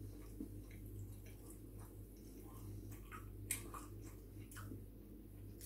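Faint mouth sounds of pizza being eaten: soft chewing with scattered wet clicks and smacks, the sharpest about three and a half seconds in, over a steady low hum.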